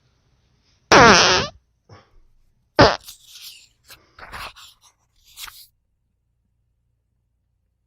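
A fart about a second in, buzzing for half a second, and a second short, sharp one just before three seconds in, followed by softer rustling of book pages being turned.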